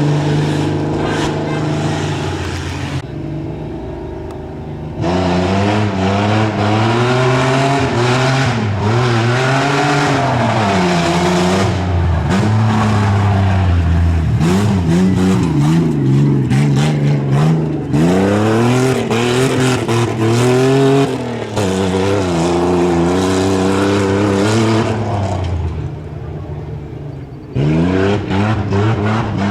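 A 4x4 tuff truck's engine revs hard over and over, its pitch rising and falling as the throttle is worked on the obstacle course. Repeated clattering and banging runs through it. The engine settles lower briefly a few seconds in and again near the end.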